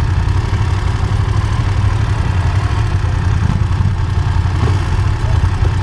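Motorcycle engine running steadily, a constant low rumble with no change in pitch.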